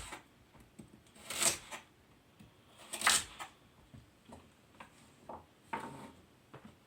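Knife cutting vegetables on a cutting board: a few separate chops, the two loudest about a second and a half in and about three seconds in, with lighter knocks later.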